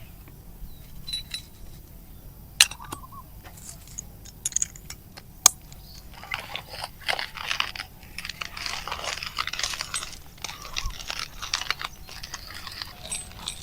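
Crunching and rustling with a few sharp clicks, two of them standing out about two and a half and five and a half seconds in. The crunching grows dense and continuous from about six seconds in.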